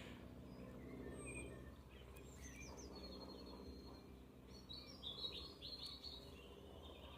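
Faint birdsong: short, quick chirps, a cluster of them in the middle of the stretch, over a low steady hum of room tone.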